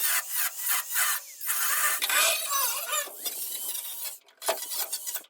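A power tool cutting into the car's old sheet-steel panel, a harsh, high grating screech in uneven bursts with squealing as the blade or disc bites and lifts off the metal.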